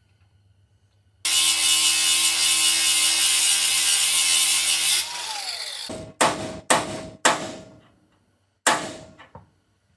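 A handheld power tool runs loudly and steadily on steel for about four seconds, then winds down with a falling whine. Four sharp metallic clanks with a short ring follow in the second half.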